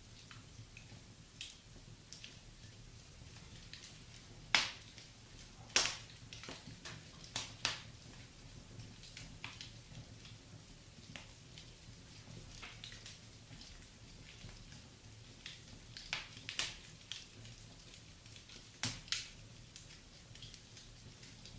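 Wood fire crackling in a fireplace: irregular sharp pops and snaps at uneven intervals, the loudest about four and a half seconds in and again about a second later, over a faint low steady hum.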